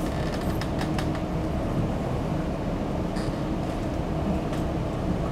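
Steady low rumble of classroom background noise, like ventilation, with a few faint clicks or taps.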